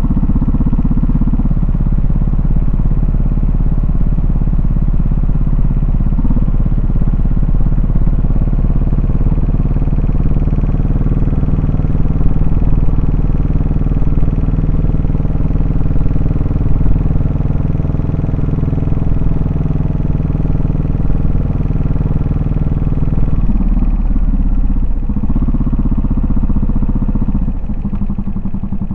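Yamaha SR400's air-cooled single-cylinder four-stroke engine running under way at a steady exhaust note, with the note changing twice near the end.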